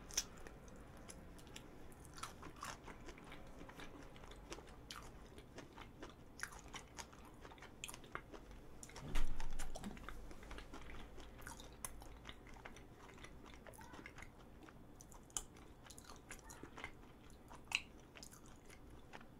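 Close-miked chewing of a strawberry chapssal-tteok, a soft glutinous rice cake with a strawberry inside: faint small clicking mouth sounds throughout, with a brief louder sound about nine seconds in.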